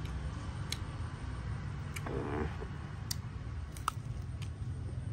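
Sharp, scattered crunching clicks of fried tarantula being bitten and chewed, over a steady low rumble of distant traffic, with a brief murmur of voice about two seconds in.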